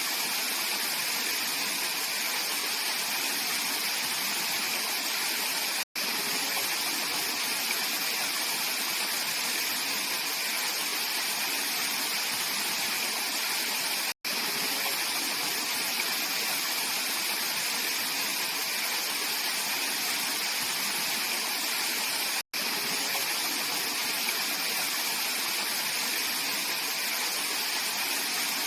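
Mountain stream water rushing and splashing over rocks in a steady, even flow. The flow is broken by three momentary dropouts to silence, about eight seconds apart.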